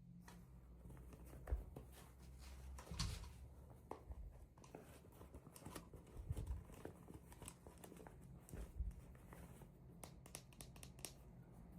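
Quiet handling sounds of small toy packaging: scattered soft clicks, taps and light rustling, with a quick run of clicks near the end, over a faint steady low hum.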